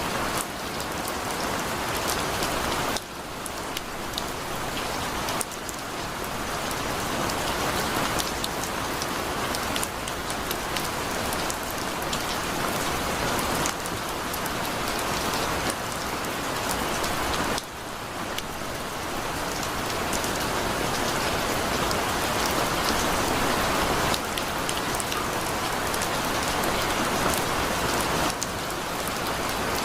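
Heavy rain falling steadily: a dense hiss of drops with many small ticks of individual drops. Its level dips suddenly a few times and builds back up.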